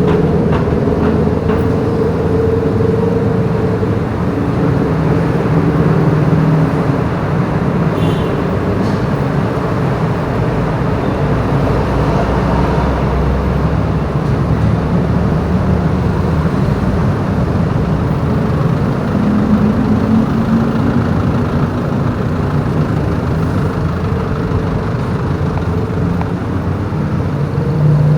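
A motorbike running on the move, its engine mixed with steady road noise.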